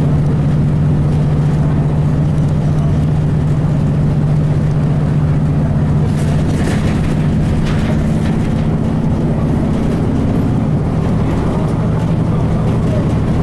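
Cummins ISC straight-six diesel of a 2002 Blue Bird transit bus running steadily under way, heard from inside the bus. The engine note changes about three-quarters of the way through.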